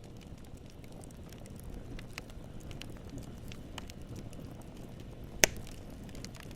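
Wood fire burning: a steady low rumble of flames with scattered small crackles and pops of the wood, and one sharp, loud pop about five and a half seconds in.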